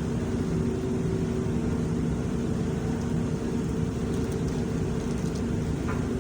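Steady low machine hum with a few constant tones, like a running motor or engine, and a few faint ticks in the second half.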